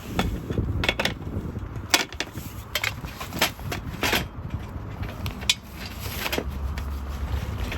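Irregular clicks and knocks of objects being handled, over a steady low rumble.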